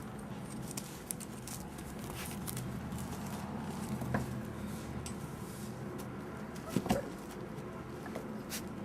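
One-month-old puppies playing: small claws and paws pattering and scrabbling in quick, uneven clicks, with a brief louder noise about seven seconds in, over a steady low hum.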